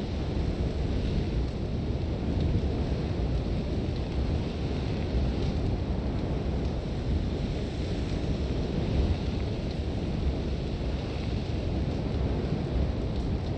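Sandstorm wind blowing hard and steadily, a heavy low rumble of gusts with a fainter hiss of blown sand over it.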